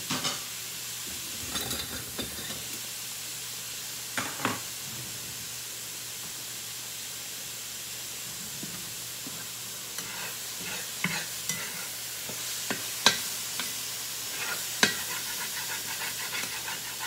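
Yellow squash and onions frying in a pan with a steady sizzle, while a metal spatula stirs and scrapes the pan in sharp clicks and scrapes, coming more often in the second half.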